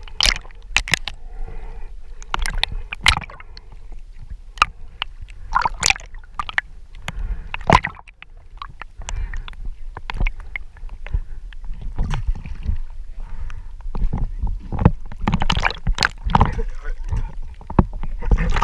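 Water splashing, sloshing and gurgling as a diver swims, in irregular strokes over a low rumble of water against the camera.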